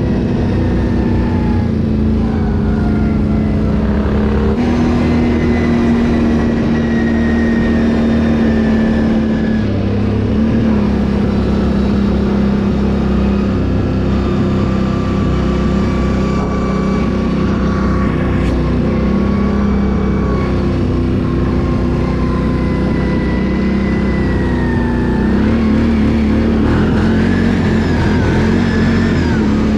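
Can-Am ATV engine running steadily under way, its pitch shifting up and down with the throttle.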